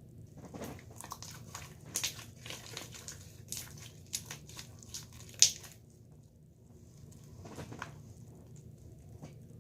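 Close crackling and crinkling handling noise, a dense run of small clicks and pops with one sharp pop a little past halfway, then a short second patch of crackles near the end.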